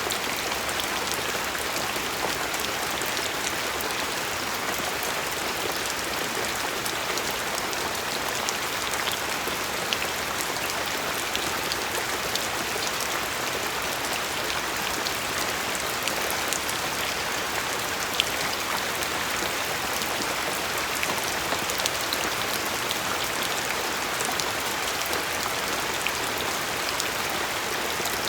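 Steady rain falling, with many small droplet ticks scattered through an even hiss.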